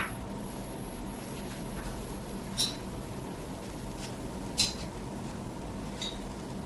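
A few short, sharp light clicks or taps, one about two and a half seconds in, another about two seconds later and a fainter one near the end, over a steady low hiss and hum.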